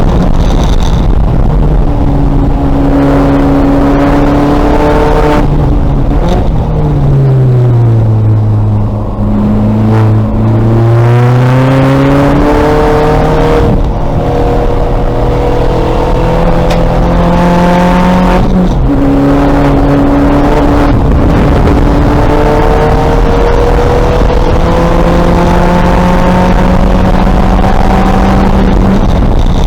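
2000 Volkswagen Golf race car's engine being driven hard on track, the revs climbing and dropping repeatedly. The pitch falls quickly at gear changes about five, fourteen and nineteen seconds in, and sinks to low revs for a few seconds near the middle before pulling up again.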